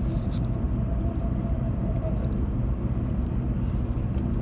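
Steady low rumble of a Shinkansen bullet train heard inside a passenger car, with a faint steady hum above it in the first couple of seconds.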